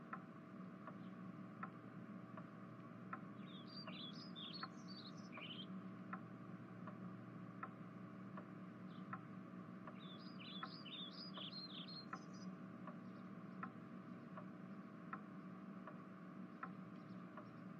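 Faint bird chirping in two short bursts of song, about four and ten seconds in, over soft regular ticks, a little more than one a second, and a steady low hum.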